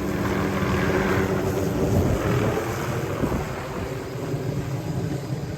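Hughes 369D helicopter running, a steady engine and rotor sound that fades gradually over the last few seconds.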